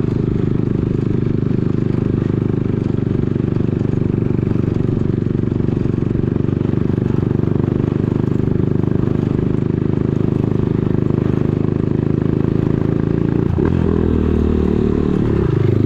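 Motorcycle engine running steadily while riding, with the engine speed changing near the end.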